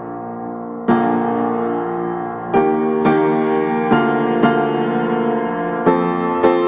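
Background piano music: slow chords, each struck and left to ring, a new one every second or so after the first second.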